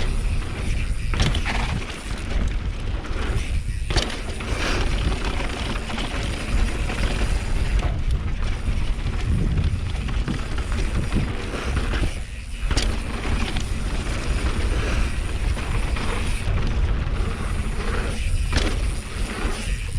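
Mountain bike descending dirt singletrack at speed: a constant heavy wind rumble on the microphone over tyre and chain rattle, with a few sharp knocks from bumps, drops or landings.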